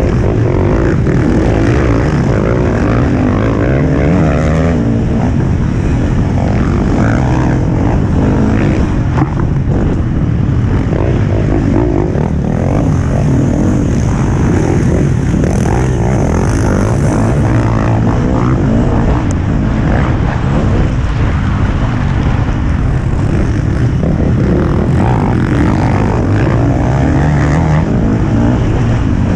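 Motocross bike engine running hard at race pace, its pitch rising and falling as the throttle is worked, heard loud from a helmet-mounted camera with wind rushing over the microphone.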